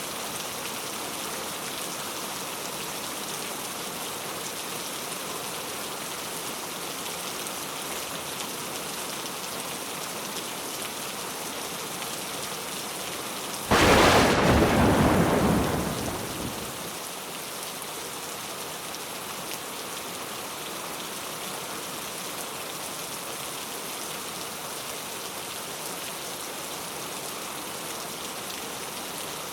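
Steady rain falling, with one sudden clap of thunder about halfway through that fades away over about three seconds.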